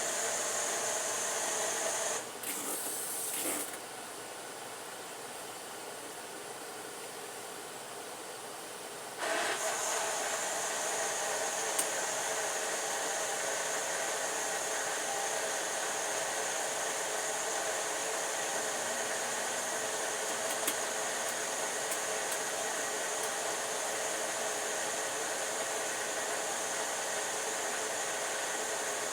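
Steady whirring, like a small motor running, which drops quieter from about two seconds in and comes back up about nine seconds in.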